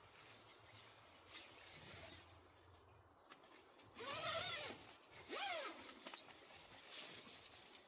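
A zipper pulled twice, each pull rising then falling in pitch as it speeds up and slows, amid rustling of fabric and gear.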